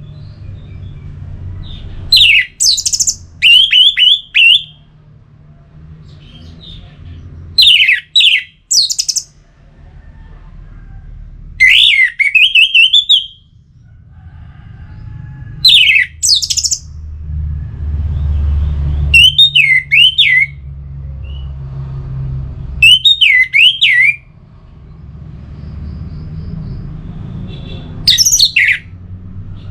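Orange-headed thrush singing: loud, short phrases of quick, varied whistles and trills, seven of them a few seconds apart, with a low rumble of background noise between.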